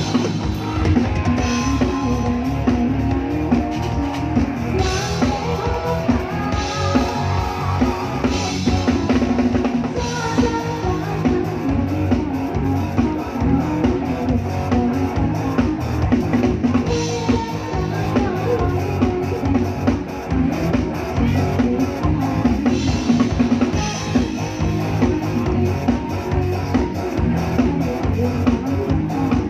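Live band music with a drum kit keeping a steady beat of bass drum and snare.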